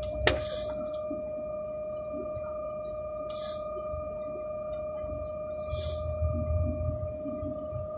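A steady ringing tone held at one pitch, with a click shortly after it begins and a few short soft hisses.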